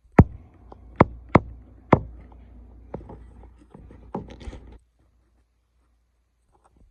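A few sharp knocks or taps, four in the first two seconds, followed by lighter clicks and scraping that stop about five seconds in.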